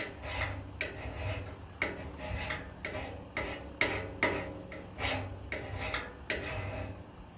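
Hand metal file rasping along the edge of a double bit axe head, sharpening it: a run of strokes about one or two a second, each with a short metallic ring. The strokes stop near the end.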